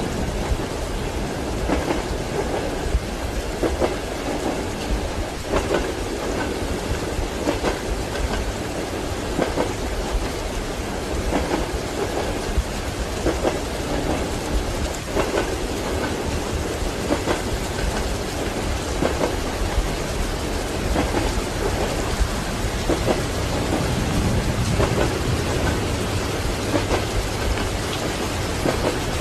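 Steady heavy rain with a continuous low rumble of thunder that swells near the end, over the rhythmic clack of train wheels on rail joints, recurring about every two seconds.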